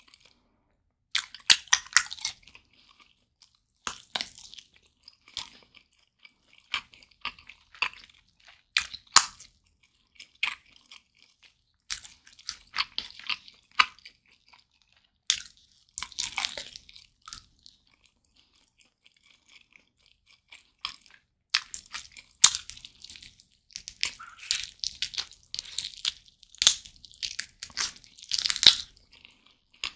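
Close-miked eating: a person biting and chewing a glazed roast chicken leg (BBQ Jamaica chicken), giving irregular clusters of sharp crackles and wet chewing, with a pause of a few seconds just past the middle.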